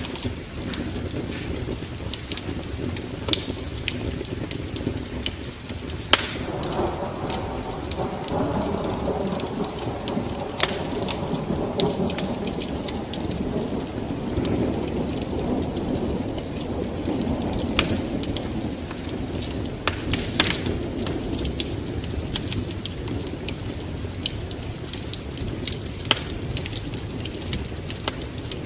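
Wood fire burning in a fireplace: frequent sharp crackles and pops over a steady low rush of flames, which swells louder through the middle stretch.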